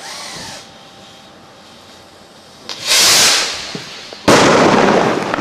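A firework going off: a loud hissing whoosh about three seconds in, then a sudden loud burst a second later that trails off over about a second.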